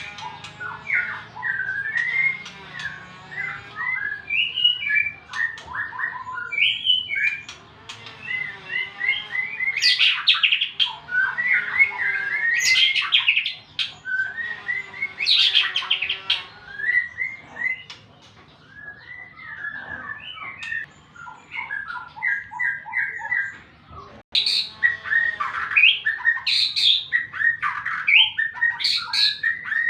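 White-rumped shama singing a long, varied song of clear whistles and rapid chattering notes, with brief pauses and louder passages. The bird is just out of its moult and singing in a challenging, rival-seeking mood.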